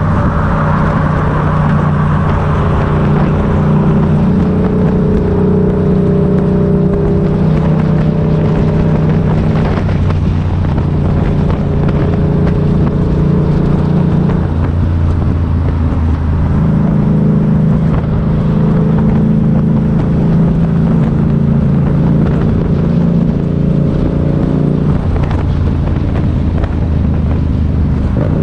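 Motorcycle engine running steadily under way, its pitch shifting about halfway through and again near the end.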